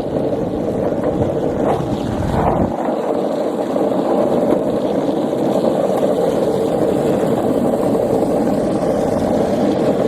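Skateboard wheels rolling fast on pavement: a steady, loud rolling rumble, its deepest part falling away about three seconds in.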